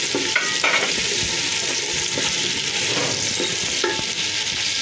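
Onions, tomatoes, ginger-garlic paste and green chillies frying in oil in an aluminium pot with a steady sizzle while a wooden spoon stirs them. There are a couple of brief louder scrapes of the spoon against the pot, under a second in and again near the end.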